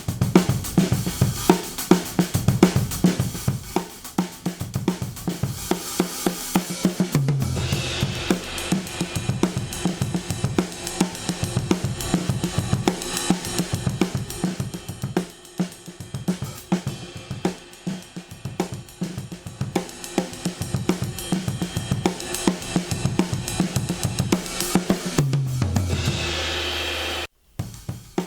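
Recorded drum kit groove (kick, snare, hi-hat and cymbals) played through a modded DBX 119 compressor/expander switched in, with deep low notes under the beat. It stops abruptly near the end.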